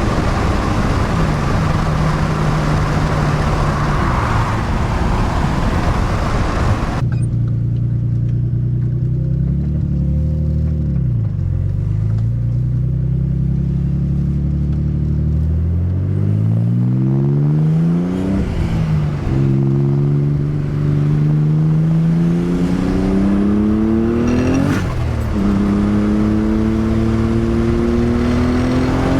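Nissan 300ZX twin-turbo V6 heard from inside the car. Under a loud rush of road and wind noise it runs at a steady engine speed; the rush cuts off abruptly about seven seconds in. The engine then slows briefly and is pulled hard through the gears, its pitch climbing steadily in each gear, with a short sharp burst and a drop in pitch at each upshift: twice, and again right at the end.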